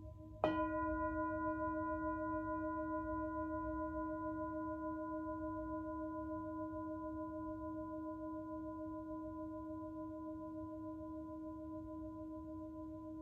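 Himalayan singing bowl struck once about half a second in, then ringing on with several overtones and a slow pulsing wobble, fading gradually while still sounding at the end.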